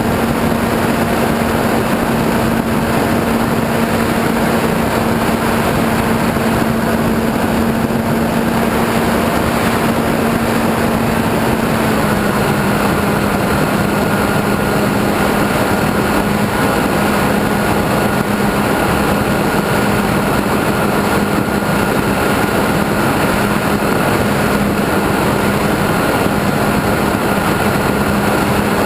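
Radio-controlled model airplane's motor and propeller running steadily in flight, heard from the onboard camera with heavy wind rush over the microphone. The motor's pitch drops slightly about twelve seconds in.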